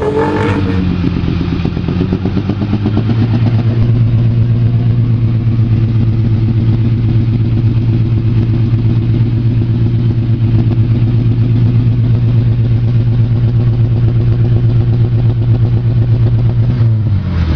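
A steady engine-like drone with a fine rapid pulse. It shifts in pitch over the first couple of seconds, then holds a low steady hum until it changes near the end.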